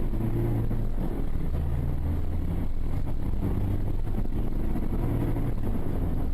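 Steady car engine and road noise, a low continuous rumble with a few low engine tones that shift now and then.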